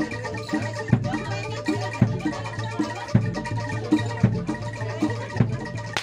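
Live kuda lumping music from a Javanese gamelan-style ensemble: deep drum strokes keep a steady beat, with a stronger accent about once a second, over ringing mallet metallophones.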